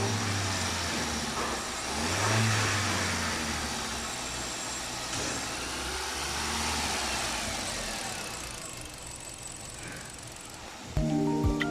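Car engine running, with one brief rise and fall in revs about two seconds in, then settling and fading.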